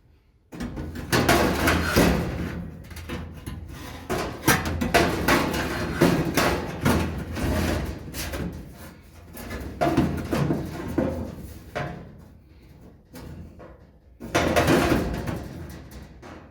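Repeated knocks and clatter of sheet-metal panels being handled and fitted in a truck cab, starting about half a second in, easing off and picking up again near the end.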